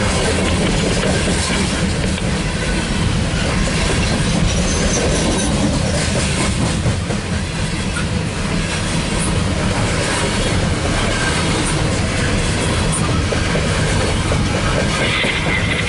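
Loaded coal cars of a freight train rolling past close by: a steady noise of steel wheels running on the rails that holds level throughout.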